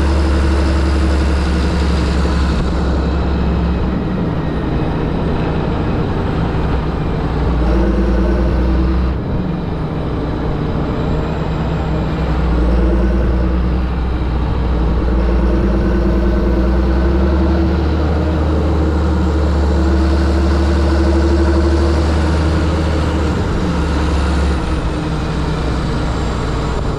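John Deere 7730 tractor's six-cylinder diesel engine running steadily, its pitch rising and falling slightly a few times as the engine speed changes.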